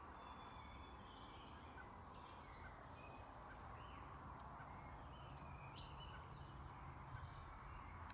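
Faint outdoor birdsong: scattered short bird chirps and calls over a low steady background hum, with one brief rising chirp a little before six seconds in.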